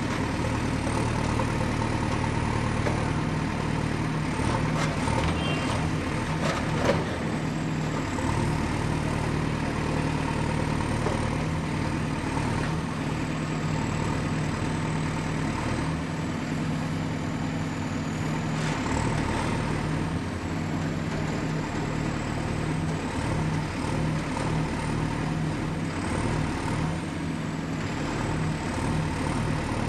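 Excavator's diesel engine running steadily under work, with a faint high whine that drifts up and down. A few knocks come about four to seven seconds in, the sharpest near seven seconds.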